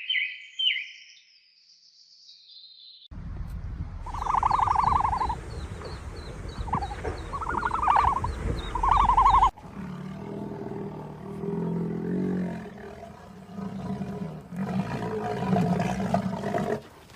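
A run of different animal calls: a bird trill fades out, then after a quiet stretch come a low rumble with three loud pitched calls, followed by low growling calls.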